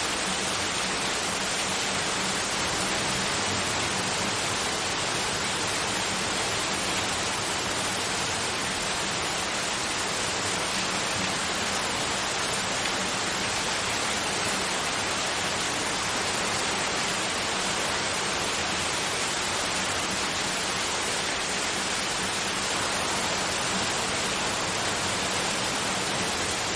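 Continuous white noise: a steady, even hiss that does not change, with a faint low hum beneath it.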